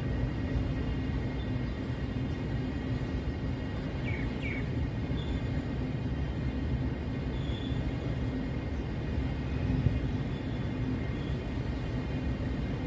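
Open freight wagons of a goods train rolling past at a distance: a steady, even rumble with a faint low hum. Two short high chirps about four seconds in.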